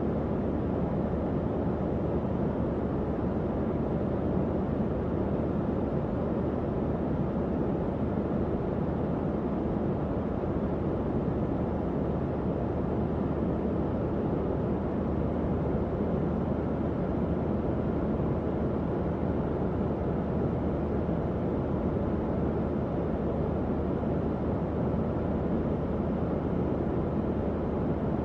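Tower fan running steadily: an even, low whooshing airflow with a faint hum, unchanging throughout.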